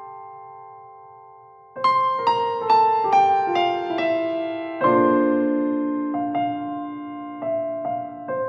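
Background piano music: a held chord dies away, then a slow descending run of single notes begins about two seconds in, followed by a fresh chord and a few more notes.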